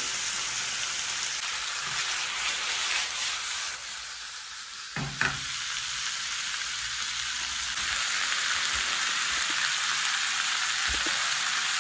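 Raw chicken pieces sizzling in hot oil with onion and bell pepper in a wok, a steady frying hiss, with a single sharp knock about five seconds in.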